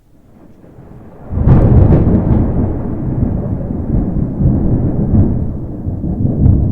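Thunder rumbling: a low rumble that swells about a second in and keeps rolling for several seconds, with a few brief crackles near its start.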